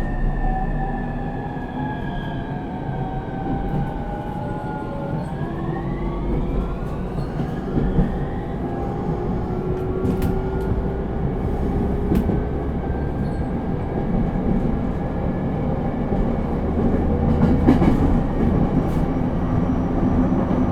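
Interior running sound of an E231 series suburban electric train: wheel and rail rumble under the whine of its Hitachi IGBT inverter motor drive. The whine's tones fall in pitch for about five seconds, then turn and rise.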